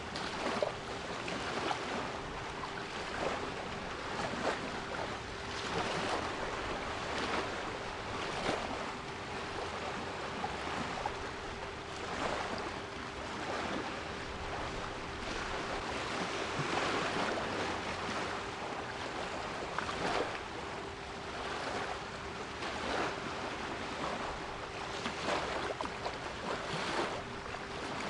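Sea waves washing in and breaking in repeated surges, with a steady 396 Hz pure tone held underneath.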